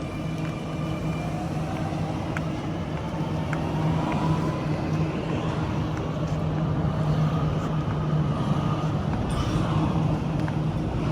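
Electric passenger train pulling away: a steady low hum, with a motor whine that rises in pitch over the first few seconds as it gathers speed, a few clicks, and running noise that grows louder after about four seconds.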